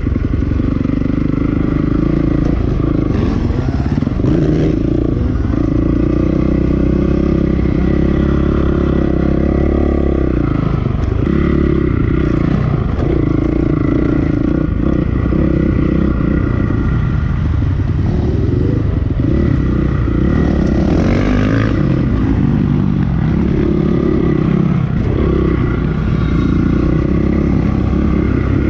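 2008 Honda CRF450R's single-cylinder four-stroke engine being ridden, its revs climbing and dropping again and again as the throttle is opened and closed.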